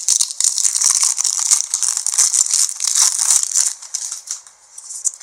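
Slime being squished and stretched in the hands: a dense run of sticky clicks and small pops for about three and a half seconds, then fewer, fainter clicks.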